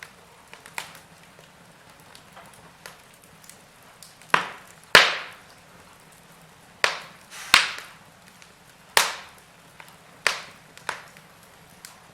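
Burning wood logs in a fireplace crackling: scattered sharp pops over a faint steady hiss, bunched in the middle, with the loudest about five seconds in.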